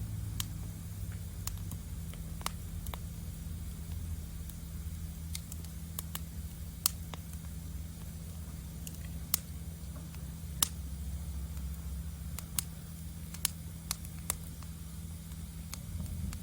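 Wood fire in a fire stand crackling, with irregular sharp pops, a few louder ones in the second half, over a steady low rumble.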